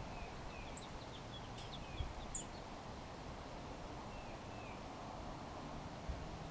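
Small birds chirping in short, high notes, a cluster in the first couple of seconds and a few more about four seconds in, over steady outdoor background noise.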